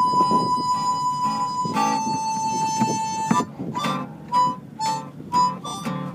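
Harmonica playing an instrumental break over strummed guitar: two long held notes, then a run of short notes from about three seconds in.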